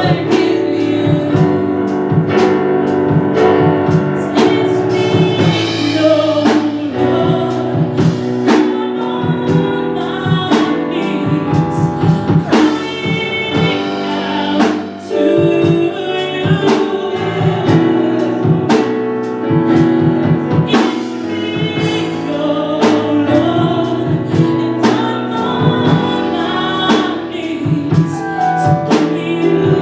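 Live gospel worship music: a band with drum kit playing while voices sing, with steady drum hits throughout.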